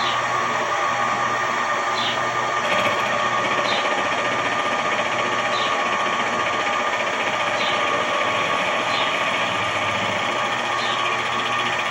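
Small benchtop machine tool running steadily: an electric motor and gear whine with short high chirps every second or two.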